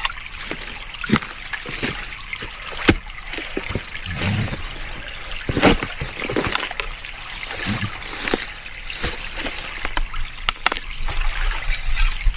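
Stream water trickling, with many short wet slaps and splashes as clay is packed onto a small dam.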